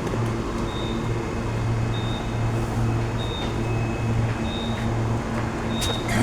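NGR electric train standing at the platform, its steady low hum running, with a short high beep repeating about every second and a quarter and a click near the end.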